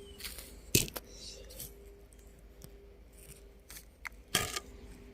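A few sharp clicks and knocks: the loudest about a second in, a smaller pair near the end, with a faint steady hum underneath.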